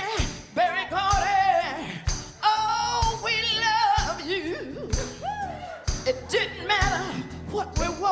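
Live soul band playing with a singer holding long, wavering notes over a steady drum beat of about one hit a second.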